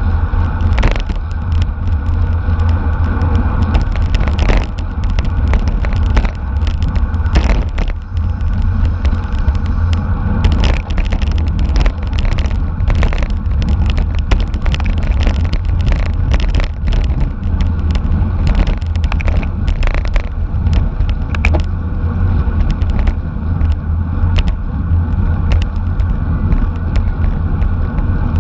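Steady wind buffeting and road rumble on the microphone of a racing bicycle's onboard camera, with many short clicks and knocks scattered throughout from the bike's drivetrain and road bumps.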